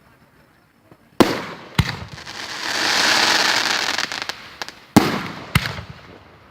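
Fireworks going off: two sharp bangs a little over a second in, a hiss that swells and fades, then two more sharp bangs near the end.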